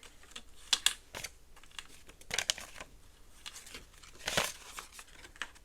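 Paper banknotes and a plastic binder envelope crinkling and rustling in a few short bursts as cash is counted out and stuffed.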